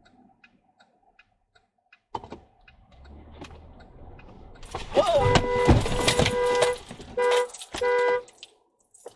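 Car horn honking in one long blast followed by two short ones, over a rising rush of traffic noise; a sudden loud burst with a brief gliding squeal comes just as the horn starts.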